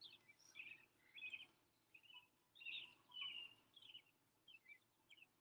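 Faint birdsong: a run of short, high chirps and warbled phrases with brief pauses between them.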